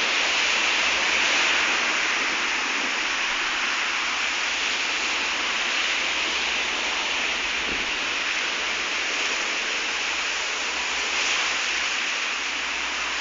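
Steady rain falling, an even hiss with no thunder heard.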